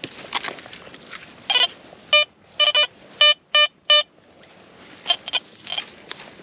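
Garrett Vortex VX9 metal detector giving about six short beeps at one pitch in quick succession, a target signal from something metal under the coil. Brief scuffs of footsteps in grass come before and after the beeps.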